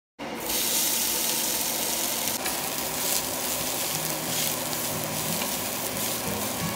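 Dried mustard greens (mei gan cai) sizzling in hot oil in a stainless steel frying pan as they are stir-fried with a wooden spatula: a steady frying hiss that starts suddenly right at the start.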